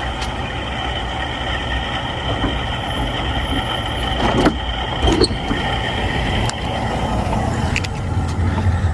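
Steady low rumble of a motor vehicle engine running, with a couple of brief knocks about halfway through.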